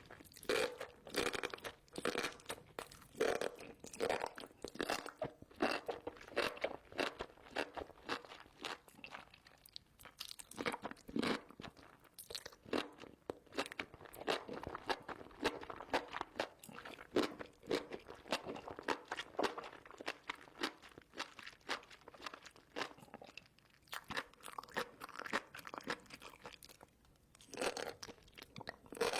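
Close-miked chewing of spicy enoki mushrooms: quick, irregular, wet crunching and crackling bites, with brief pauses between mouthfuls.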